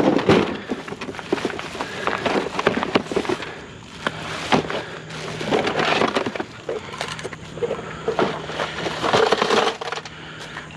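Scrap and junk being handled and moved by hand: irregular clattering knocks, scrapes and crunching, with a low steady hum underneath from about four seconds in.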